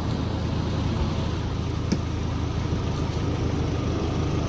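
Four-wheel-drive vehicle's engine running steadily, with one short sharp click about two seconds in.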